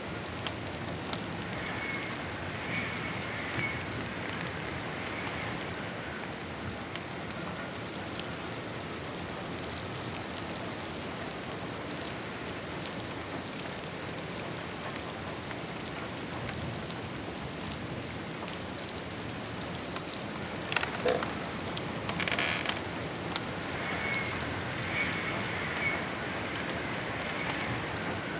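Steady rain, with scattered crackles from a wood fire in a fireplace and a short burst of louder pops about three quarters of the way through.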